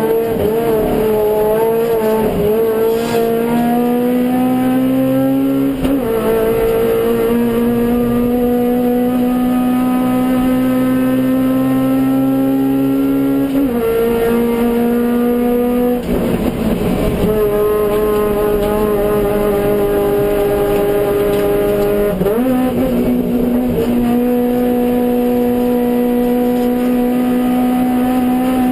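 Suzuki Swift GTi's G13B 1.3-litre four-cylinder engine running hard at high revs under racing load. Its pitch climbs slowly through each gear and falls sharply at several gear changes and braking points.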